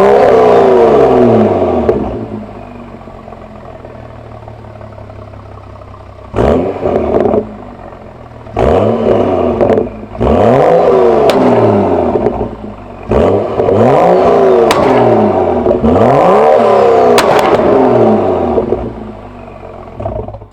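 BMW 335i's turbocharged N55 inline-six with a catless downpipe, free-revved. The engine falls from high revs to idle about two seconds in, then is blipped about five times, the revs climbing and dropping back to idle each time.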